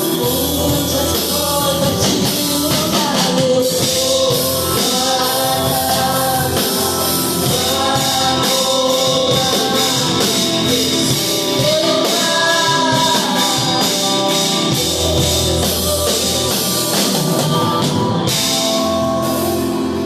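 Live gospel band with drum kit accompanying singing voices, in a steady rock beat.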